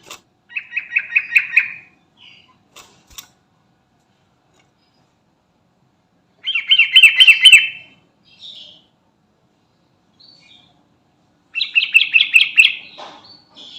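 Sooty-headed bulbul (trucukan) singing three short phrases several seconds apart. Each phrase is a quick run of repeated notes that grows louder toward its end.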